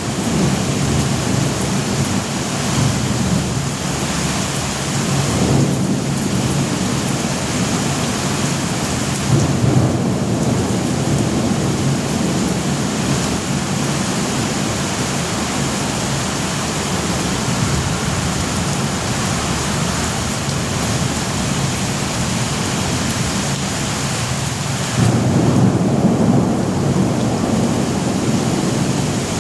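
Thunderstorm: steady heavy rain with rolling thunder, the rumble swelling louder about ten seconds in and again near the end.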